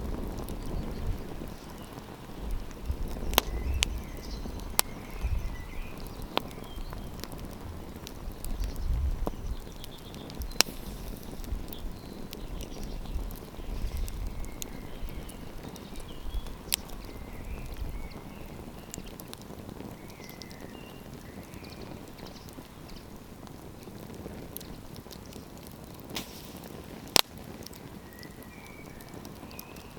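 Wood campfire crackling, with sharp pops and snaps at irregular moments, one much louder pop near the end. A low wind rumble on the microphone runs through the first half and then fades.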